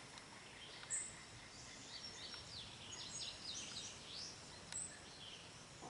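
Faint wild bird calls outdoors: a few short, very high chirps, and a brief run of quick calls about two to four seconds in.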